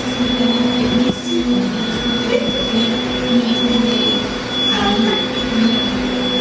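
Deerma cordless vacuum cleaner running steadily, its motor giving a continuous whine over a rush of airflow.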